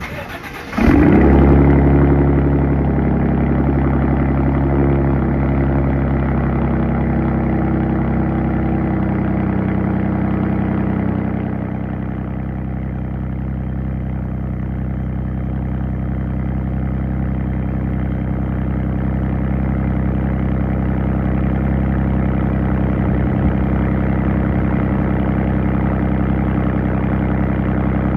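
Ford F-150's 2.7-litre twin-turbo EcoBoost V6 cold-starting through a Borla ATAK rear-exit exhaust: a brief crank, then it catches about a second in with a loud flare and settles into a steady idle, dropping a little in loudness around twelve seconds in.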